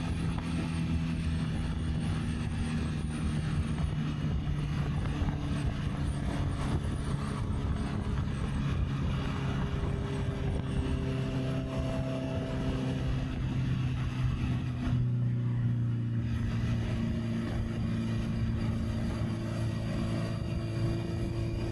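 Honda CB650R's inline-four engine running at steady revs while riding, with wind rushing over the camera mic. About fifteen seconds in the engine note drops a little and the wind briefly eases.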